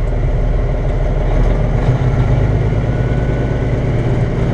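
Old tandem-axle log truck's diesel engine running steadily with a low drone while the truck is under way, freshly serviced and feeling tighter.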